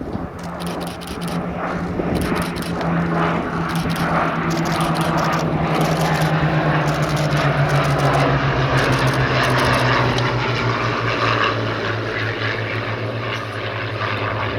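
Propeller-driven piston-engined warbird flying past. The engine note swells to its loudest about two-thirds of the way through and falls steadily in pitch as the aircraft goes by.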